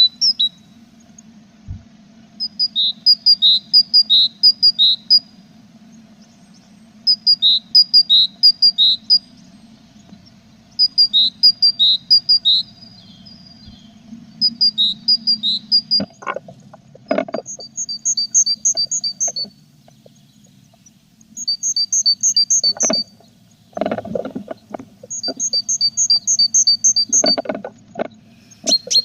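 Tits in a nest box: loud runs of rapid, high two-note chirps, each run lasting one to three seconds and repeated every few seconds. From about halfway on, scratching and knocking thumps come in between the runs, over a faint steady low hum.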